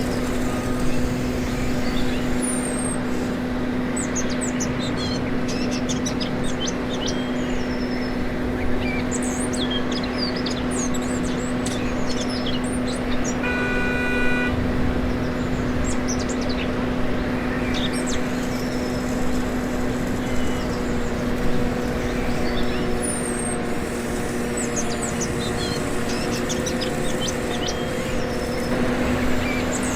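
Steady, even hum of a 1/14-scale remote-control excavator's motor running, with birds chirping throughout and a brief beep about halfway through.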